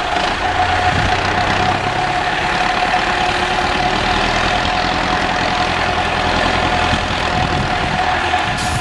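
IFA W50 4x4 truck's diesel engine idling steadily, with a steady whine above the engine note.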